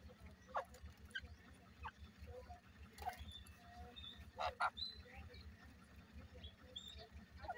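Faint, short bird chirps scattered throughout, with light clicks and rustling. A quick double click about halfway through is the loudest sound, over a low hum.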